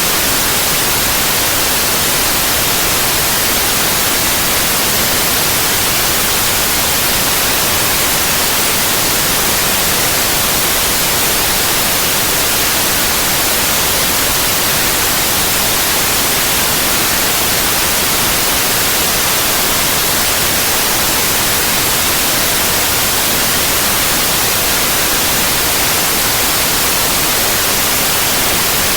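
Synthetic white noise: a steady, unchanging hiss, loud and even, with no breaks or other sounds.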